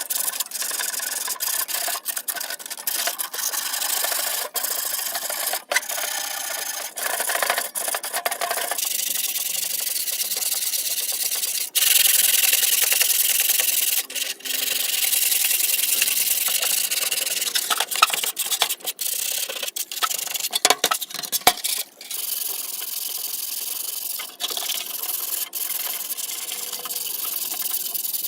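Hand sanding of rusty metal fan parts: continuous abrasive rubbing strokes with many brief pauses, louder for a couple of seconds near the middle.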